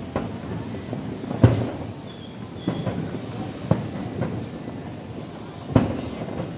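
Fireworks bursting overhead: about six bangs at irregular intervals, the loudest about a second and a half in and near the end, over a continuous rumble.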